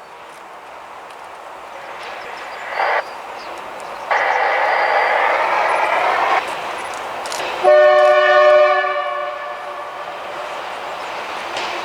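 Approaching T448p diesel locomotive with a train of empty hopper wagons, its rumble growing louder, sounding its horn three times: a short blast, a long blast of about two seconds, then a blast of about a second.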